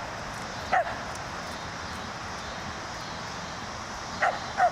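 A dog barking three times: one short bark about a second in, then two quick barks in a row near the end.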